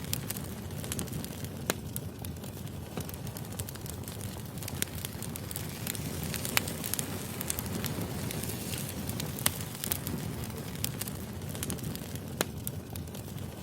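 Wood fire crackling: a low, steady rumble of burning logs with irregular sharp pops and snaps.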